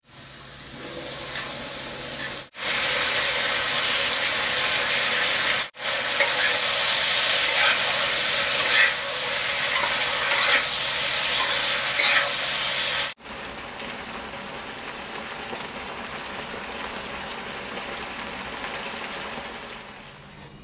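Food sizzling as it is stir-fried in a hot pan, with a few short scrapes or clinks of the spatula. The sizzle breaks off abruptly three times as clips change, and is quieter for the last stretch.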